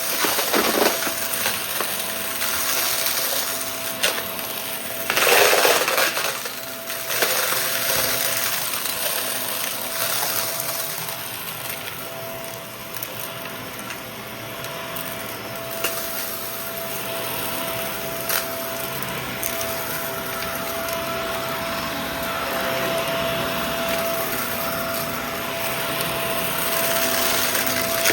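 Shark vacuum cleaner running with a steady motor whine, with crackling and rattling as it sucks up bits of debris, loudest about five seconds in.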